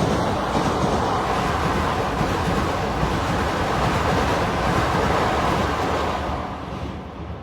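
Indian Railways train of ICF coaches hauled by a WAG-9 electric locomotive running past, a steady rumble of wheels on rail that fades away from about six seconds in.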